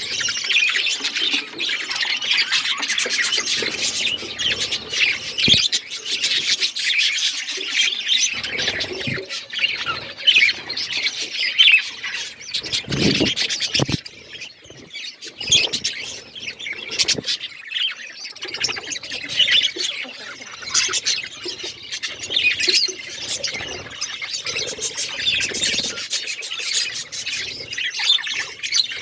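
Budgerigars chirping and chattering in a fast, continuous stream of high chirps and squawks, with a brief lull and a few low thumps about halfway through.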